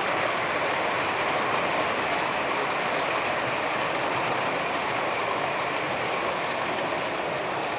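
Model train running on its track: a steady rolling noise with no pauses.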